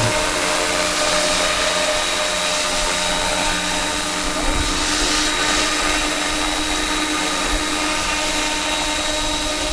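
RC scale model helicopter (Roban EC 665 Tiger) running, with a steady high whine from its drive and rotors.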